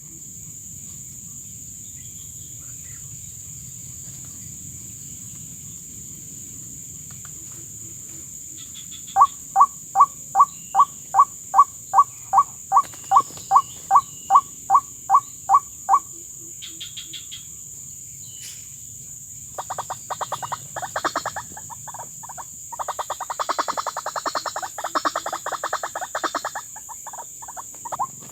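White-breasted waterhen calling: a long run of loud, evenly repeated croaking notes, about two and a half a second, then faster chattering bursts of notes a few seconds later. Crickets shrill steadily underneath.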